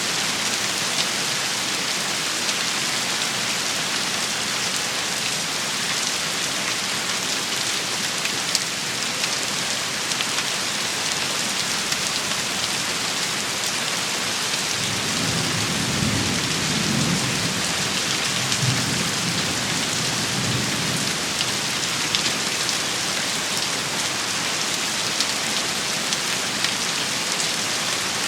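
Steady rain shower hissing and pattering on surfaces, with scattered drop ticks. About halfway through, a low rumble of thunder rises and rolls on for several seconds before fading.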